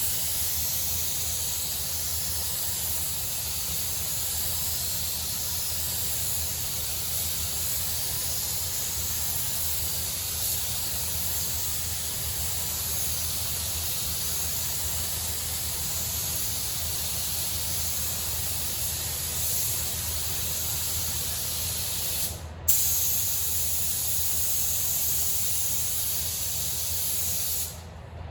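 Compressed-air paint spray gun hissing steadily while a coat of car paint is applied, the third coat. It breaks off for a moment about two-thirds of the way through, then stops shortly before the end.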